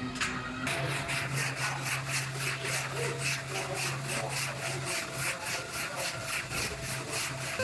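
Hand sanding in steady back-and-forth strokes, about three to four a second, with a steady low hum underneath.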